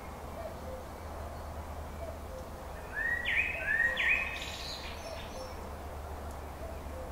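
Outdoor ambience with birds: two loud, short rising calls close together about three seconds in, over faint chirps repeating about every second and a low steady hum.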